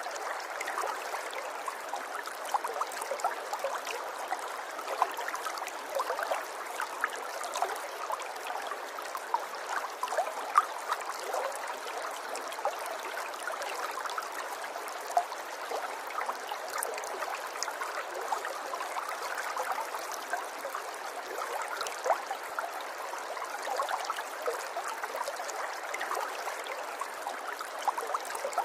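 River water flowing: a steady babble with many small splashes and gurgles, and no deep rumble.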